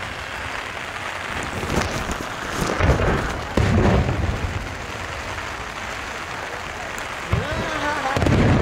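Fireworks shells bursting overhead in several deep booms over a steady hiss of heavy rain and wind.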